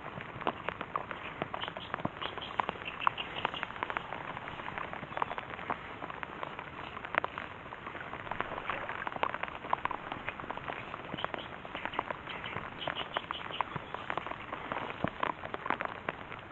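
Light rain pattering on a marsh's water surface: many small, irregular drop ticks over a soft hiss.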